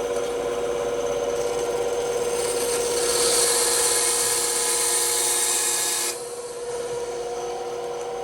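Bandsaw running with a steady hum while its blade cuts through wood. The cutting hiss builds from about a second in, is strongest in the middle, and stops suddenly about six seconds in while the saw keeps running.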